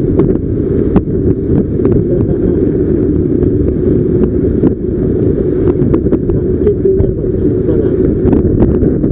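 Heavy wind rushing over the microphone of a camera mounted on a moving motorcycle, a steady low rumble, with scattered small ticks and knocks.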